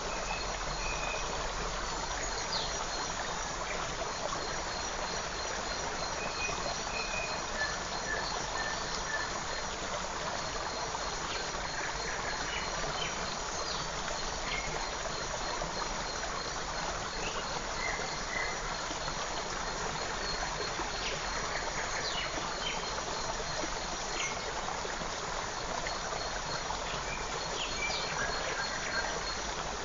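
Forest creek flowing steadily, with a rapid, even high trill of chirping running through and scattered short bird calls.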